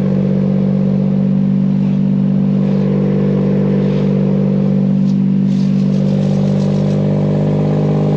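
Engine-swapped Nissan Maxima's VQ-series V6 running at a steady speed, with no rise or fall in revs.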